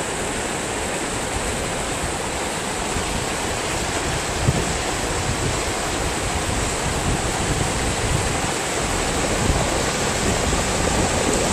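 Overland floodwater rushing across a road, a steady rushing noise that grows a little louder near the end.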